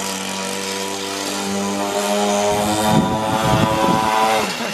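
Small motorcycle engine running steadily as the bike is ridden slowly toward the microphone. About halfway through it turns louder and rougher.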